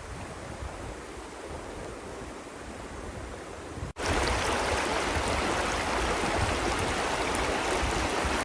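Steady rushing of flowing river water. It jumps louder at an edit cut about four seconds in.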